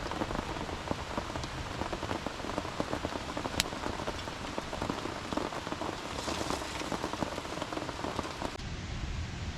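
Heavy rain falling, a dense patter of many drops with the odd sharper tick. Near the end it turns to a duller hiss.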